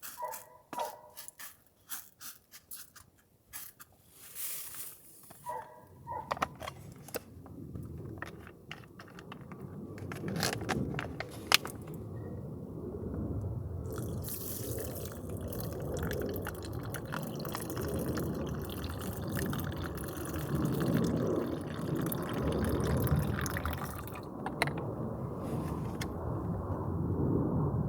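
A few small clicks and knocks of handling, then water bubbling steadily in a cooking pot, growing louder over several seconds and holding there.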